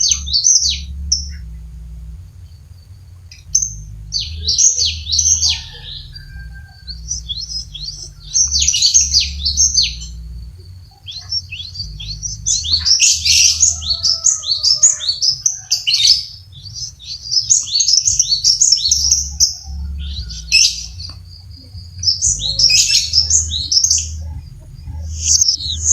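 Cinereous tit (gelatik batu) singing in bout after bout of quick, high chattering notes with short pauses between them, over a low steady hum.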